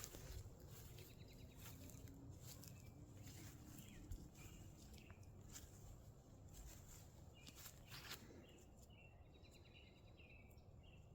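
Faint bird chirps, short and scattered, with soft clicks in a quiet outdoor background.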